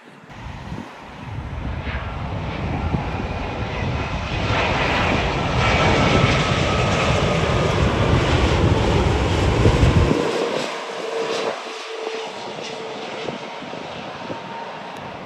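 Airliner's jet engines as the plane passes close by: the noise builds to a peak about two-thirds of the way through, with a whine sliding down in pitch, then falls away.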